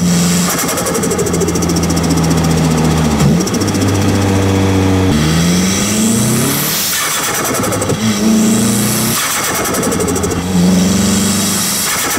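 Nissan Silvia S15's turbocharged SR20 engine with a T28 turbo, heard from a microphone right at the turbo while driving. It runs steadily, then about five seconds in the revs climb with a rising turbo whistle, and the sound drops away sharply as the throttle closes before it settles back to steady running.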